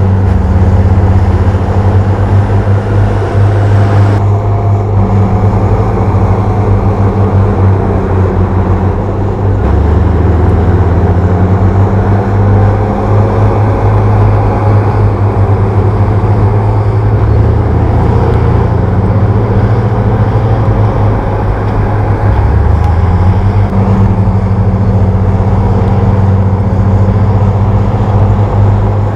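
A bulldozer's diesel engine running hard with a steady low drone, its pitch dipping and rising slightly a few times as the load changes.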